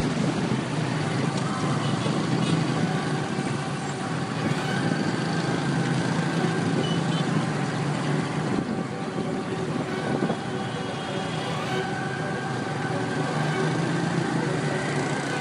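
Steady noise of dense city road traffic, with vehicle engines running throughout and a few faint held tones rising above it.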